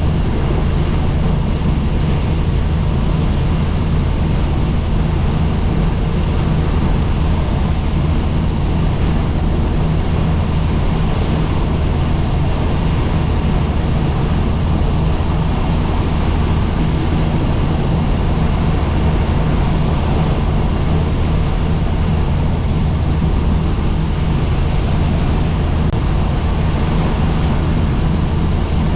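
Helicopter in steady flight: the constant loud drone of its turbine engine and rotor, deep and unchanging.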